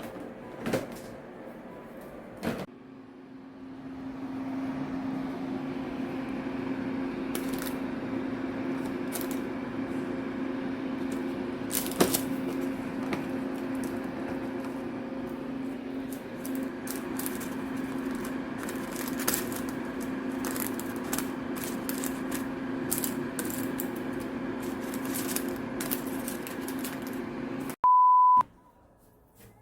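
A kitchen appliance's motor and fan humming steadily for about 25 seconds, with a few light clicks over it, then cutting off and giving a single electronic beep.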